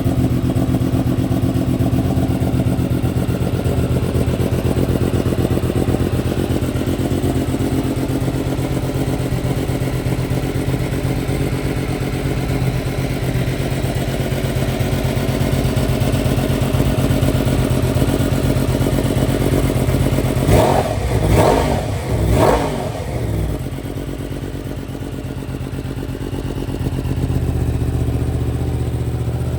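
2025 Yamaha R1M's crossplane inline-four, through a full Akrapovic exhaust with a matching tune, idling steadily, then revved three times in quick succession about two-thirds of the way through before falling back to idle.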